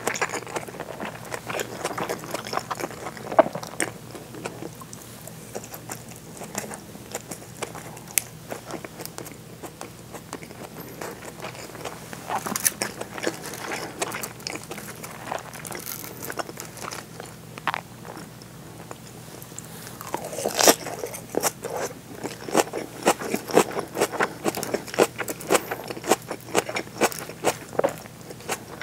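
Close-miked chewing of seared bonito (katsuo no tataki) topped with sliced green onions: wet mouth clicks and soft crunches, thinner for a while in the middle and coming thick and fast near the end.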